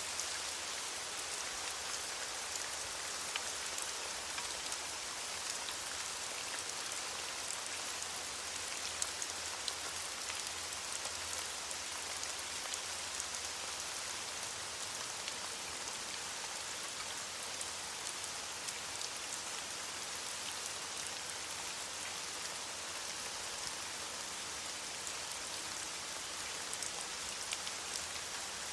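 Steady rain falling on leaves: an even hiss with many small drop ticks scattered through it.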